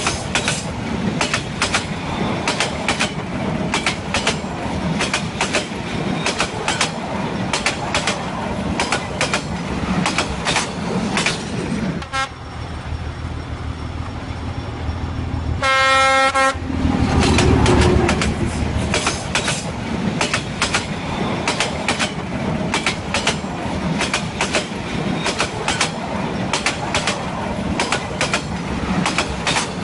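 Freight train of hopper cars rolling past at close range, its wheels clicking rapidly and steadily over the rail joints over a low rumble. The clicking drops out for a few seconds from about 12 seconds in. A short train horn blast sounds about 16 seconds in, after which the clicking resumes.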